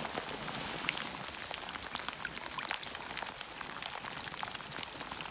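Rain falling into a shallow pool of standing water covered with fallen leaves: a steady hiss with many separate drops ticking on the water and leaves.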